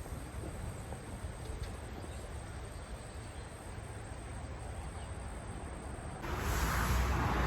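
Steady outdoor background with a thin, steady high hum like insects. About six seconds in, a louder rushing noise starts abruptly.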